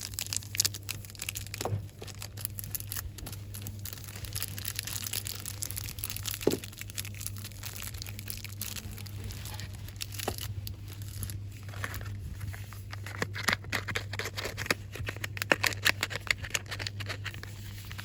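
Packaging crinkled and rustled quickly by hand, with scattered sharp taps and crackles that grow busier in the second half. A steady low hum runs underneath.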